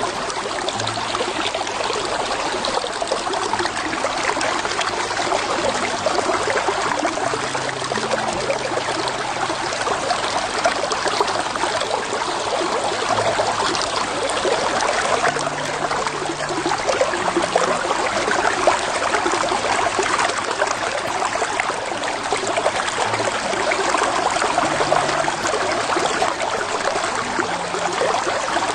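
Shallow creek running over a bed of stones and pebbles: a steady rushing, trickling sound of flowing water.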